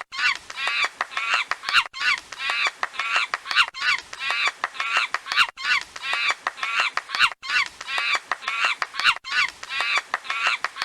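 A bird calling over and over in a fast string of harsh, pitched calls, several a second, with a brief break about every two seconds.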